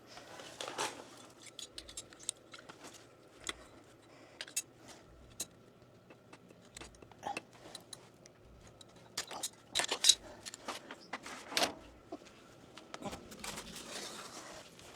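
Scattered light clicks, taps and rattles of PEX pipe and plumbing fittings being handled and fitted together, busiest about two thirds of the way through.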